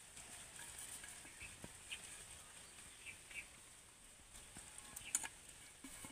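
Faint, short bird chirps scattered over quiet background hiss, with a couple of soft clicks about five seconds in.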